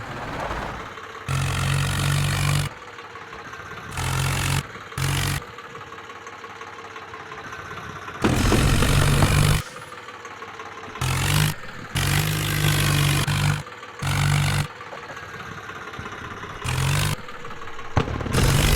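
Tractor diesel engine running, switching abruptly between loud stretches and a quieter steady hum about eight times.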